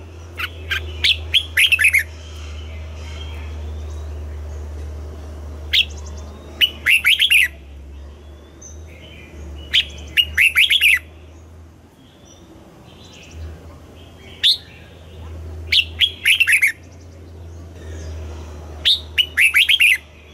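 Red-whiskered bulbul singing: five short phrases about four seconds apart, each a few sharp notes followed by a quick run of falling notes. A steady low hum runs underneath.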